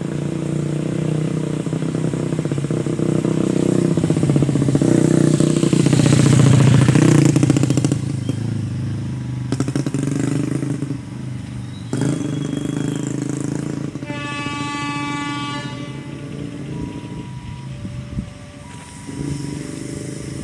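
Diesel locomotive engine running, growing louder to a peak about six to seven seconds in and easing off. Around fourteen seconds in the train horn sounds for about two seconds, followed by a few short single-pitch beeps.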